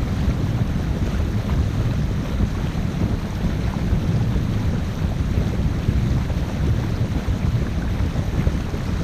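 Steady low rumble of wind buffeting the microphone aboard a 50-foot sail/motor boat under way, with no distinct engine tone or splashes.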